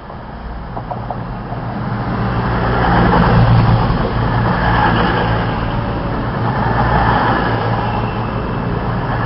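Diesel train passing through a station: a low engine hum with wheel and rail noise, growing louder over the first three seconds and then holding steady.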